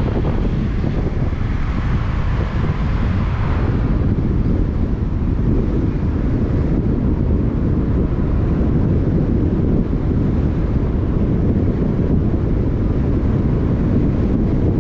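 Wind buffeting the microphone: a loud, steady, fluttering rumble, with a brief rushing hiss over it in the first few seconds.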